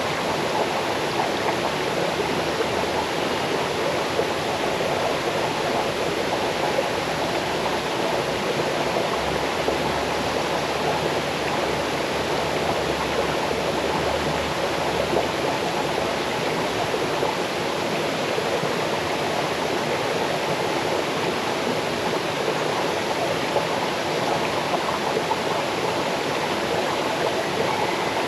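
Small waterfall cascading into a forest stream: steady rushing and babbling water, even and unbroken.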